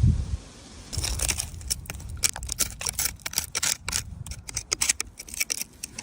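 Rapid, irregular clicking and scraping of hard objects against each other. A brief low rumble sits at the very start.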